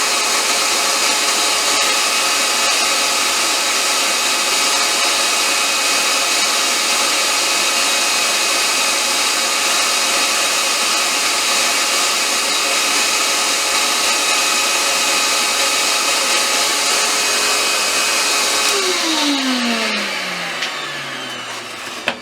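Lathe running at a steady speed, a loud motor whine over a high hiss. It is switched off about 19 seconds in and spins down, its whine falling in pitch, with a couple of knocks near the end.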